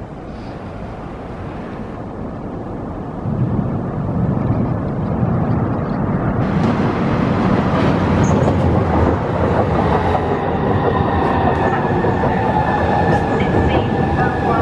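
Class 395 high-speed electric multiple unit approaching and running in alongside the platform, growing louder, with a jump in level about three seconds in. From about ten seconds in a steady high whine of several tones sits over the rumble of the wheels.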